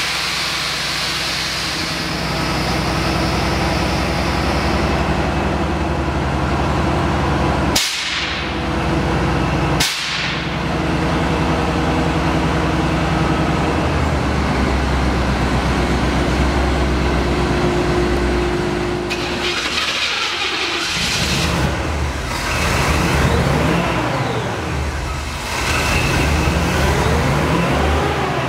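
Vintage Ford truck's engine running, with two abrupt breaks in the sound about a third of the way in and a change in its note about two-thirds through.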